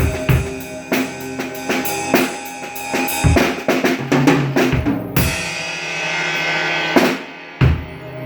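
Drum kit being played in a fast run of kick, snare and rim hits over steady held tones. About five seconds in the strokes give way to a long ringing crash, with one more hit near the end.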